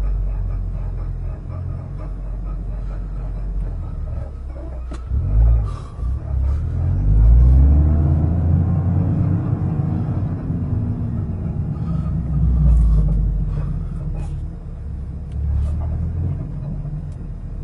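Toyota GR Corolla running at low speed: a steady low rumble, with a pitch that rises and then falls about halfway through, and a few light knocks.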